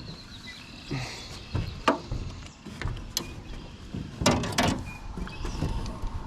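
Scattered knocks and rattles of gear and handling inside a small jon boat, over a low rumble, with the loudest cluster of knocks a little past four seconds.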